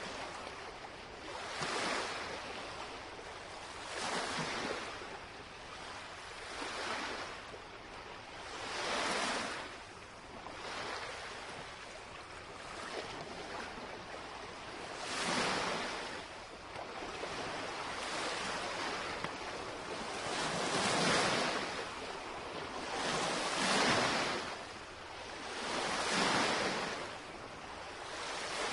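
Small lake waves lapping and washing on the shoreline, a surge every two to three seconds over a steady wash of water.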